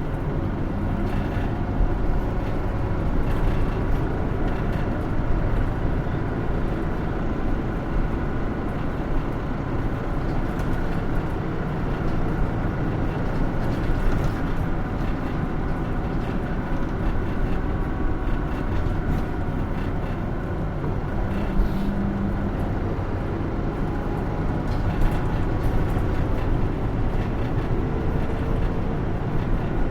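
Running sound inside the cabin of a 2016 Hino Rainbow II (SKG-KR290J1) diesel route bus: steady engine and road noise, with a few faint rattles.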